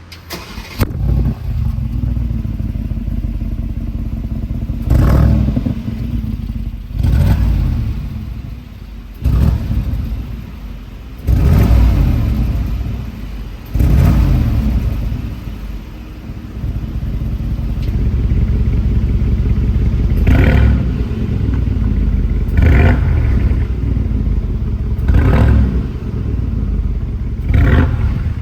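Mercedes-AMG G63's twin-turbo V8 through an Akrapovic exhaust, firing up at the start and then idling with about ten sharp throttle blips, each revving up and falling back to idle.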